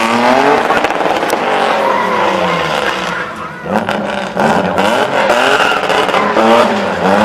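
Mini coupe's Renault 3.0 V6 engine revving hard, its pitch rising and falling again and again during a drifting freestyle, with tyres squealing.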